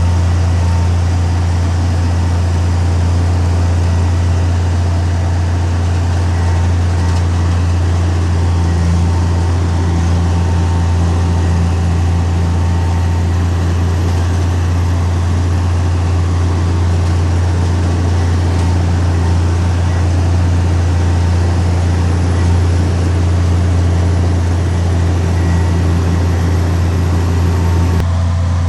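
Heavy diesel engine of earthmoving machinery running steadily with a strong low, even drone.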